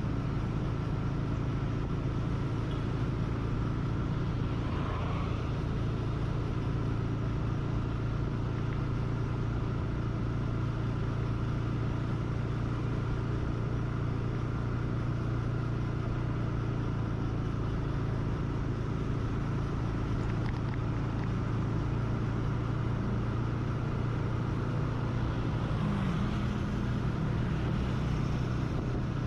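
A motor vehicle's engine running steadily while riding along at an even speed, a constant low hum over road and wind noise.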